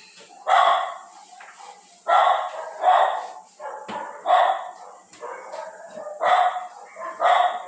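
A dog barking repeatedly, about six separate barks spaced one to two seconds apart.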